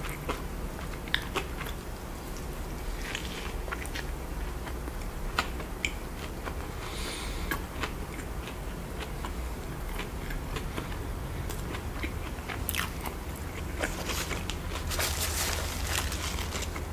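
A person biting into and chewing a Shack Stack burger, a beef patty with a fried mushroom patty in a soft bun heavy with sauce. Scattered crisp clicks and crunches run through the chewing.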